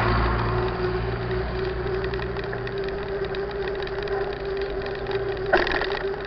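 A vehicle engine running steadily at low speed, with one sharp knock or clack about five and a half seconds in.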